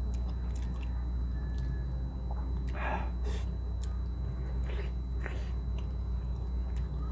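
Close-up chewing and biting of soft cooked milkfish (paksiw na bangus), with wet mouth smacks and small clicks, a few louder ones around the middle. A steady low hum runs underneath.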